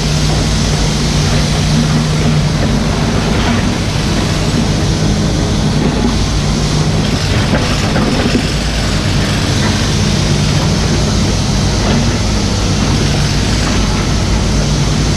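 Mini excavator's diesel engine running steadily under work, with a few light knocks and clatters from the machine.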